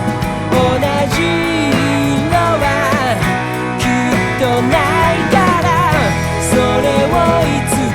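Pop-rock band music: a melodic lead line with bends and vibrato over guitar, bass and drums.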